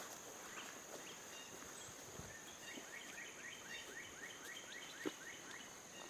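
Faint outdoor field ambience with a small bird singing a quick run of repeated rising notes, about four a second, starting about two and a half seconds in, over a steady high whine. A single sharp click near the end.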